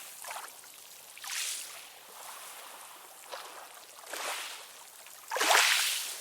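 Ocean waves washing in and out, swelling and fading several times with little low rumble, the loudest wave surging in suddenly near the end.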